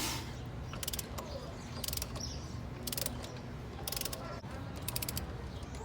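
Hand ratchet wrench clicking in short bursts about once a second, each burst a quick run of clicks as the handle swings back between turns of a bolt.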